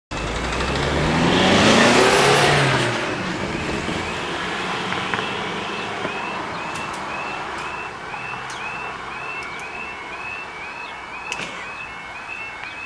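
A car drives over the level crossing, loudest about two seconds in, its engine note falling as it passes. Then the crossing's warning alarm sounds: a short rising chirp repeated about twice a second.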